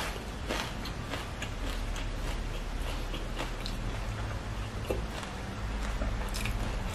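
Close-miked chewing of a mouthful of food, with scattered soft clicks from the mouth and from fingers picking through food on the plate. Underneath runs a steady low hum.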